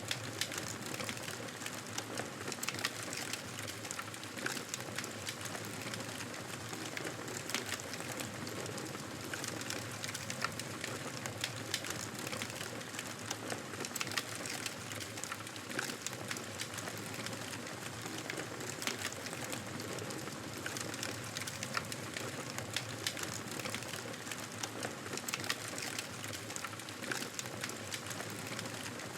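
Wood fire crackling steadily in a fireplace: many small sharp pops and snaps over a soft hiss.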